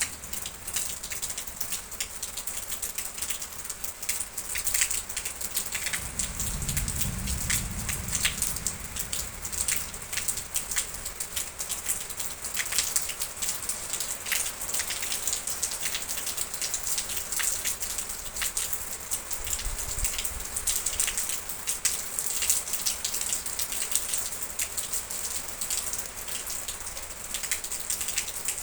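Steady rain, a constant hiss with many individual drops pattering close by. A brief low rumble comes in about six seconds in and again near twenty seconds.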